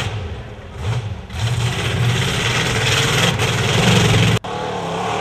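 Off-road truck's engine revving up and easing off several times, its pitch rising and falling, with an abrupt break about four seconds in.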